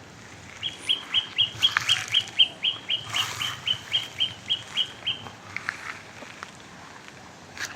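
A bird calling a fast, even series of about eighteen short, high, slightly down-slurred notes, about four a second, that stops about five seconds in. A few faint crackles of dry leaves underneath.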